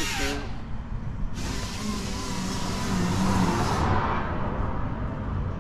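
1967 Chevrolet Impala's engine running with the hood up: a steady low rumble, with a louder rushing stretch from about one and a half to four seconds in.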